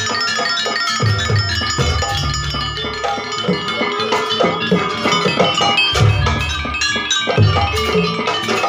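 Live campursari music accompanying a dance: Javanese ensemble with drum strokes over ringing mallet-percussion notes and a bass line.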